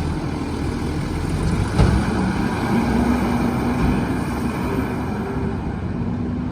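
An Autocar split-body garbage truck's engine running steadily, with a single sharp knock about two seconds in.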